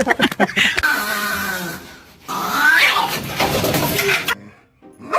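A dog making two long drawn-out vocal cries, the second rising in pitch, cut off suddenly about four seconds in.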